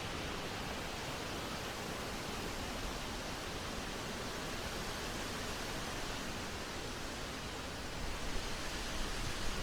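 Wind blowing across the microphone: a steady rushing hiss with a low rumble, swelling in a few short gusts near the end.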